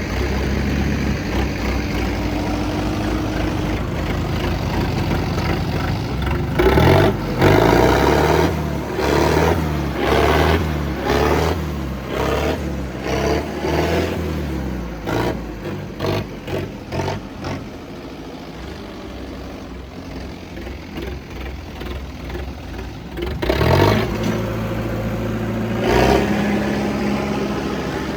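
Tractor diesel engine running, then revved up and down in quick repeated bursts about once a second for several seconds. It drops back to a lower, quieter running and is revved sharply twice more near the end before settling to a steady run.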